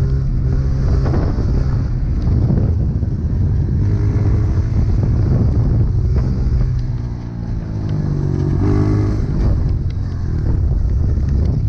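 Dirt bike engine running hard as it is ridden, its pitch rising and falling with the throttle and gear changes.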